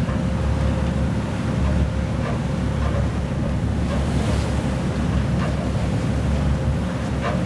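Motor ship under way: a steady low rumble with a faint constant hum, water rushing past the hull, and wind buffeting the microphone.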